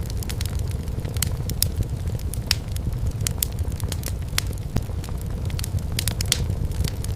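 Wood fire burning in a fireplace: a steady low rumble of flame with irregular sharp crackles and pops from the burning firewood, several a second.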